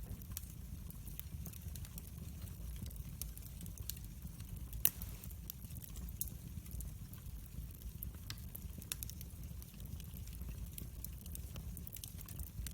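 Wood fire burning in a fireplace, crackling with many small scattered pops over a low steady noise, with one louder pop about five seconds in.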